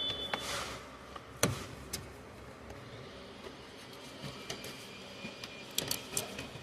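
A few sharp clicks and light knocks over a low steady background, with a short rush of noise about half a second in and a cluster of quick clicks near the end.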